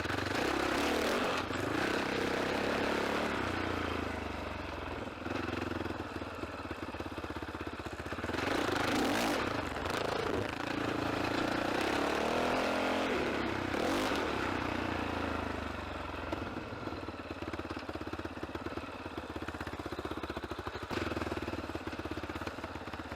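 GR8 F450L enduro motorcycle engine running while being ridden off-road, its revs rising and falling over and over, with a couple of louder surges of throttle partway through.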